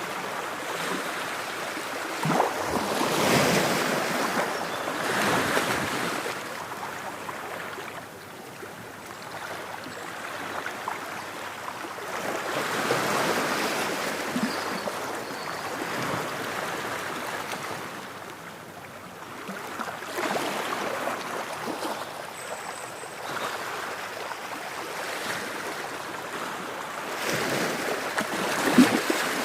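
Ocean waves breaking on a shore, each wash swelling and fading every few seconds in an uneven rhythm.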